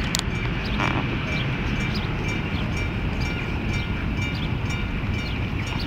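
Freight train rolling past: a steady low rumble with clicks repeating every half second or so.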